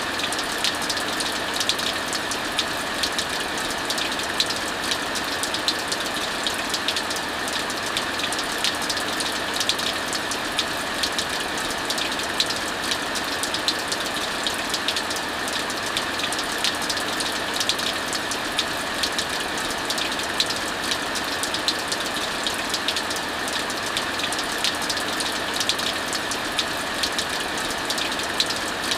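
Heavy rain falling steadily, a constant hiss, with the frequent sharp crackles and pops of a wood fire burning in a fireplace.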